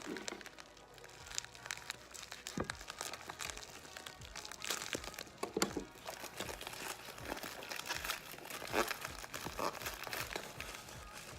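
Bubble mailer and plastic packaging being pulled open and handled, with irregular crinkling, rustling and tearing.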